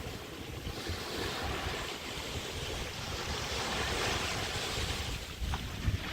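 Small bay waves washing and breaking on a sandy beach, with wind buffeting the microphone in low, gusty rumbles. There is a brief thump near the end.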